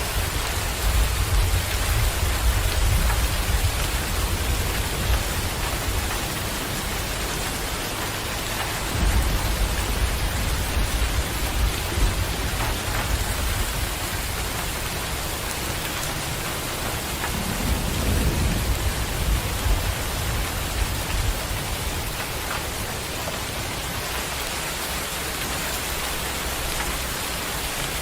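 Steady heavy rain hissing down, with low rolling thunder rumbling at the start, again about a third of the way in and once more past the middle, then fading away.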